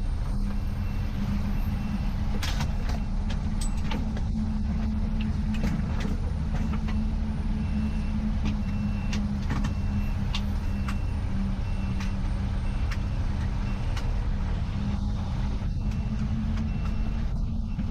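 Fire engine running steadily under way, a continuous low drone, with a faint high beep repeating in short regular dashes and scattered clicks and rattles.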